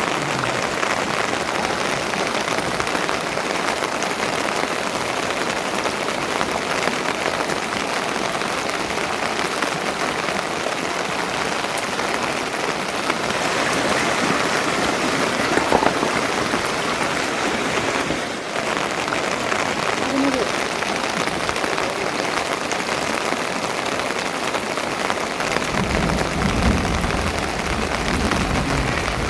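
Steady rain falling, an even hiss of drops. A low rumble joins near the end.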